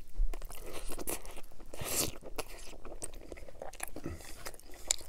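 Close-up chewing of a mouthful of Italian BMT sub on Italian herb and cheese bread: a bite followed by crisp crunching, the loudest crunch about two seconds in.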